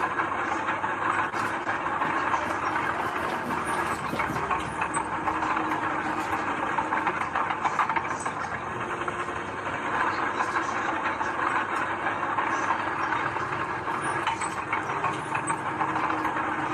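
Heavy diesel earth-moving machinery working steadily, its engine running under a continuous clattering noise.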